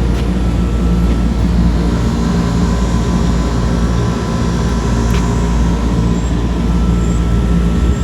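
Rooftop HVAC unit running: a steady mechanical drone with a low, even hum.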